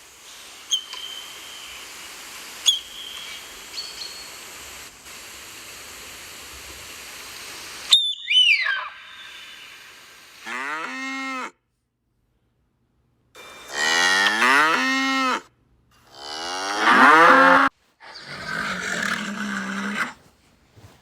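Cattle mooing: four long moos in the second half, each sliding down in pitch. Before them come a stretch of outdoor noise with a few short high chirps and a falling whistle-like glide.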